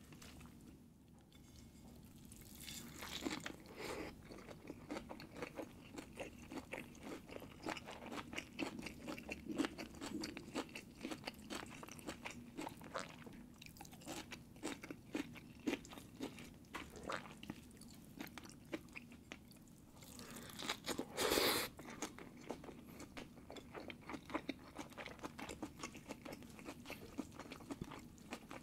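Close-miked eating sounds: steady chewing and biting with many small wet clicks and crunches, and one louder, brief sound about three quarters of the way through.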